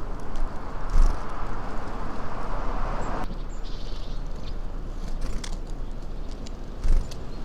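Steady outdoor background rumble, likely from street traffic, that drops away suddenly about three seconds in. There are two short knocks, one about a second in and one near the end, and a few faint high chirps.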